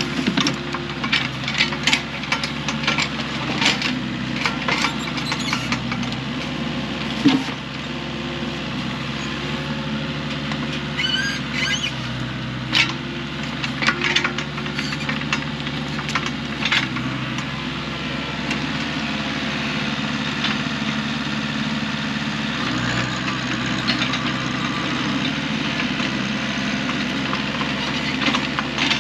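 An engine running steadily, its pitch shifting a little now and then, with frequent sharp knocks and clatter over it during the first half or so.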